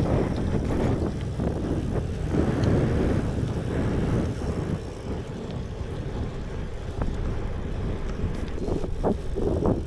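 Wind buffeting the action camera's microphone while cycling at speed: a steady low rumble that swells and eases a little.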